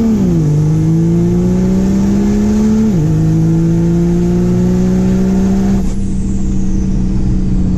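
Pickup truck engine under hard acceleration on a drag strip pass, its note climbing steadily and dropping sharply at two upshifts, right at the start and about three seconds in. Near six seconds the upper hiss falls away and the engine note holds level.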